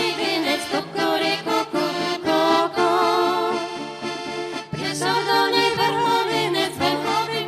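Accordion-led folk band playing an instrumental passage of a Lemko folk song in a steady, lively rhythm.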